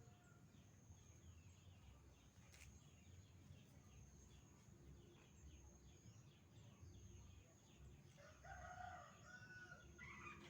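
A rooster crowing faintly about eight seconds in, over a quiet background of faint high, quick chirps.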